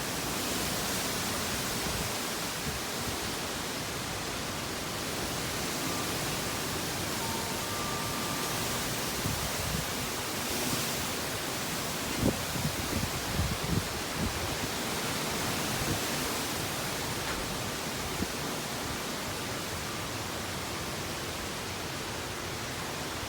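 Strong wind blowing in a steady rush, with gusts buffeting the microphone in a run of low thumps around the middle.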